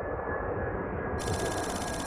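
Steady jet engine rumble of an arriving Boeing 767-400ER, with a thin steady whine above it. A rapid high buzz cuts in about a second in.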